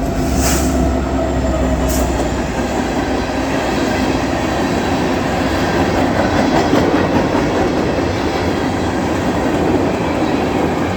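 Freight ore train passing at close range: a low locomotive drone in the first few seconds, then the steady rumble and rattle of ore cars rolling on the rails. Two sharp clacks about half a second and two seconds in, which the railfans take for pennies on the rail being run over.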